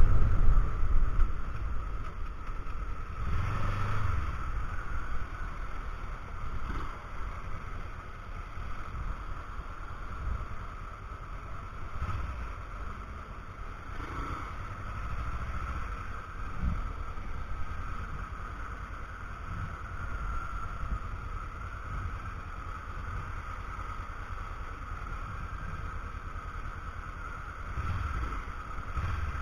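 Steady rumble of wind and road noise, with the Kawasaki Ninja 300 running underneath, picked up by a cheap action camera's microphone while the motorcycle is ridden. It is louder at the start and swells briefly about four seconds in and near the end.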